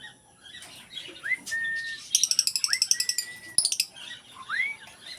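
Pet bird calling: three short rising whistles that level off into a held note, a second or two apart, with a fast run of clicks in the middle.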